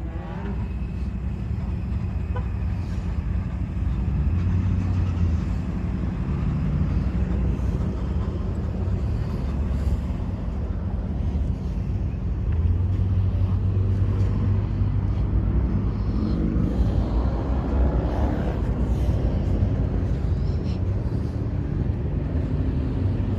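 Car engine running with a deep, steady rumble that swells a couple of times, with a faint rise and fall in pitch near the end.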